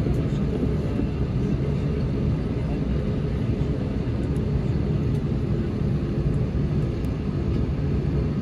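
Cabin noise inside an Airbus A321 taxiing after landing: a steady low rumble of the engines at idle and the cabin air, with a constant low hum.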